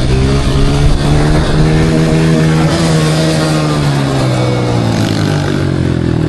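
Small dirt bike engine running under throttle, its pitch climbing over the first few seconds, then easing off and dropping near the end.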